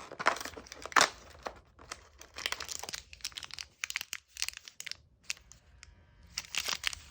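Plastic wrapper of a cat treat portion being crinkled and torn open by hand, in irregular crackles with a louder burst about a second in and another near the end.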